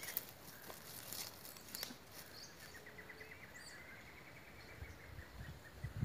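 Faint forest birdsong: one bird gives a rapid trill of short, evenly spaced notes for about three seconds midway, with a few high chirps from others. A few faint clicks come in the first two seconds, and a low rumble starts near the end.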